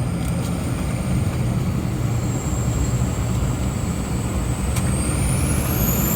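LBZ Duramax 6.6 L V8 turbo-diesel pulling under way, heard from the cab, with the high, thin whistle of its Stainless Diesel 9-blade turbo. Near the end the whistle rises in pitch as the turbo spools up.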